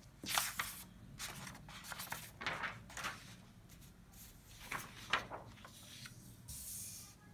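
A string of short, irregular scratchy rustles and light knocks from small objects being handled, about a dozen over several seconds, with one sharper knock about five seconds in.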